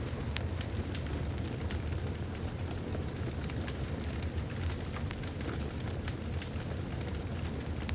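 Wood fire in a fireplace crackling, with many irregular sharp pops and snaps over a steady low rumble of flames.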